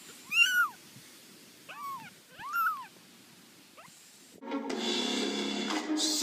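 A cat meowing three times, each call rising and then falling in pitch, the second one weaker. Music starts about four and a half seconds in.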